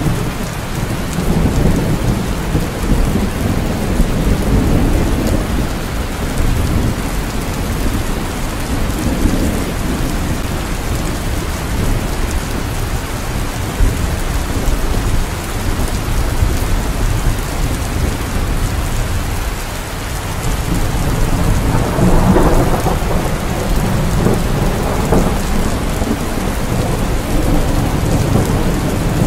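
Steady rain falling, with low rolling rumbles of thunder that swell near the start and again about three quarters of the way through.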